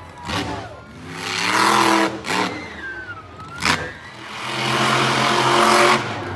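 Monster truck engine revving in two long surges, the first about a second and a half in and the second from about four and a half seconds, with a few short sharp bangs between them.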